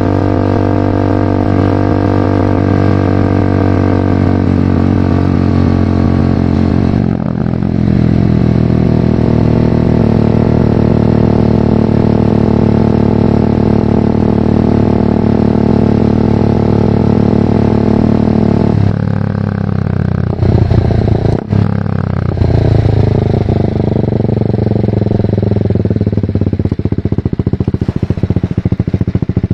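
A BMW G310R's single-cylinder engine through a full Mivv exhaust, pulling at steady revs with a short break for a gear change about seven seconds in. Around twenty seconds in the revs change sharply a few times. Near the end it settles into an uneven low-rev rumble.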